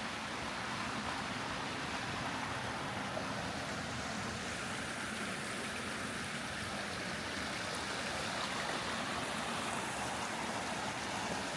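Steady rush of a brook running over rocky cascades.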